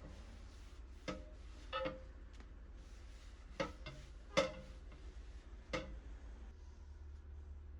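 Five light knocks or clicks, spaced unevenly over a few seconds, each with a short ring. The fourth is the loudest. A steady low hum runs underneath.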